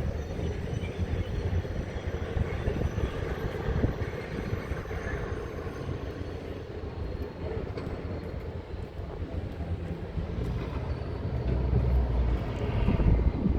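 Heavy diesel engine of a Hitachi 870 excavator running with a steady low rumble that grows louder near the end.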